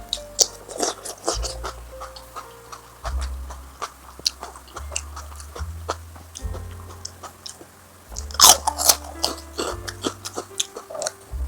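Close-up eating sounds: biting and crunchy chewing, in short sharp bites with the loudest cluster a little past eight seconds, over background music with a low bass line.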